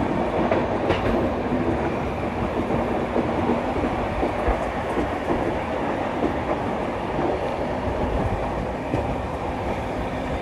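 Passenger train running along the track: a steady rumble and rattle with scattered clicks from the wheels passing over rail joints.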